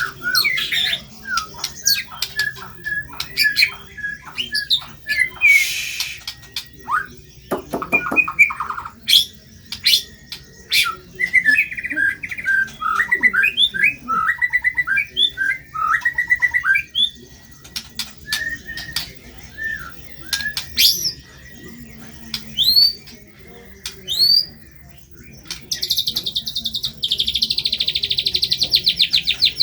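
White-rumped shama singing a varied, busy song of short whistled phrases, rising sweeps and sharp notes. Near the end it breaks into a long, fast, rattling trill.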